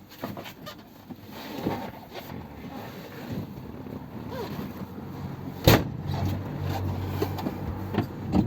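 Knocks and rustling of someone moving about inside a car, with one loud sharp knock about two-thirds of the way through, followed by a low steady hum.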